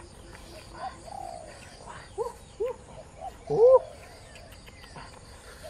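Bird calls: a few short, arching notes about two seconds in, with the loudest call about three and a half seconds in, over faint outdoor background noise.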